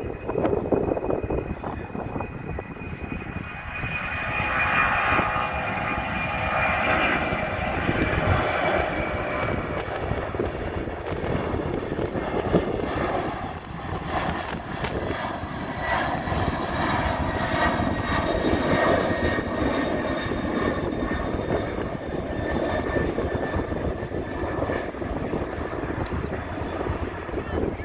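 Boeing 767-200 freighter's twin turbofan engines at takeoff power: a loud, steady jet rush with high whining tones.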